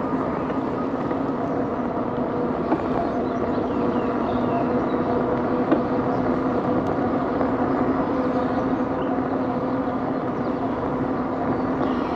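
Electric bike riding along at a steady speed, heard from a handlebar-mounted camera: a steady hum under an even rushing noise.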